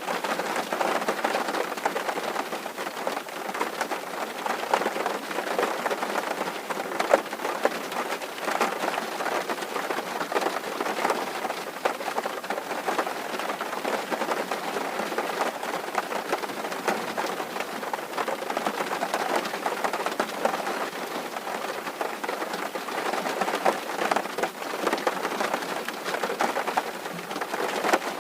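Steady rain drumming on a tin roof: a dense, continuous patter of drops.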